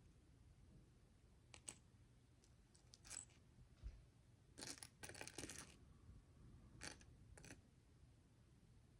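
Faint scattered clicks and short rustles of tiny plastic micro bricks being handled and pressed together, with a denser run of clicking about five seconds in.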